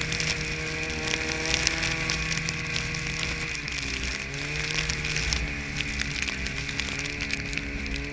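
Snowmobile engine running under way. Its pitch holds steady, drops about halfway through as the throttle eases, then wavers up and down, over a hiss with scattered small clicks.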